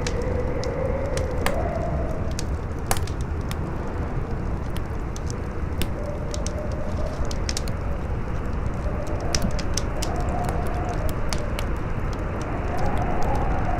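Campfire crackling with frequent sharp pops and snaps, over a steady low rumble of strong wind that howls with a slow rising and falling pitch.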